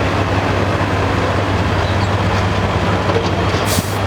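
A pulling tractor's engine running loud and steady with a deep continuous rumble, and a short hiss near the end.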